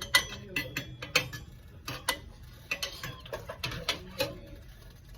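A string of irregular sharp clicks and light knocks, like small hard objects being handled and set down, thinning out after about four seconds.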